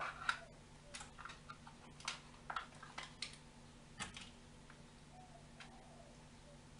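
Plastic tub of crème fraîche being opened by hand: a run of short clicks and crinkles from the lid and seal over the first four seconds, then a faint steady hum.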